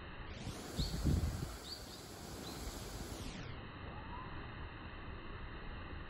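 Outdoor background noise with a bird giving three short, high chirps about a second apart in the first half, and a fainter chirp later. A couple of low thumps about a second in are the loudest sound.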